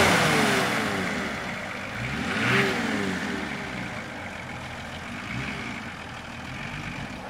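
Off-road Nissan 4x4's engine coming off the throttle, revs sliding down, then a short rev rising and falling a little over two seconds in, before it runs on at lower revs and grows quieter.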